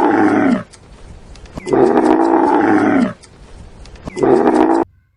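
Camel bellowing in three loud, groaning calls: one ending about half a second in, a longer one in the middle, and a short one near the end that cuts off suddenly.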